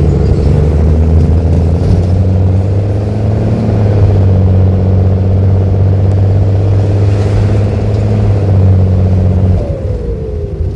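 Mercedes-Benz OH-1318 bus diesel engine running with an open, muffler-less exhaust, pulling under load as a steady low drone. About nine and a half seconds in, the engine note drops away and a single falling whine follows.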